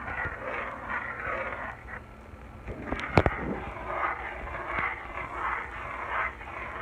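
A utensil stirring and scraping a flour-thickened Marsala sauce in a small frying pan, in repeated strokes, with one sharp knock against the pan about three seconds in.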